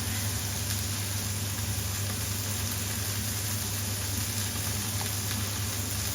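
Chicken and curry sauce sizzling steadily in a frying pan, over a constant low hum.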